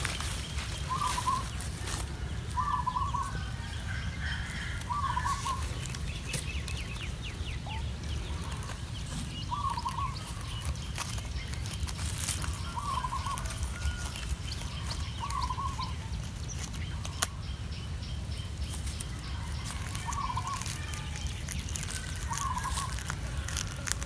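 A bird calling over and over, short wavering notes about every two to five seconds, with scattered soft crackles and a steady low rumble underneath.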